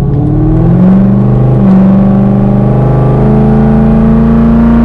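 Corvette V8 with a loud exhaust, driving: the engine note climbs in steps about one and two seconds in and again past the middle, then holds steady.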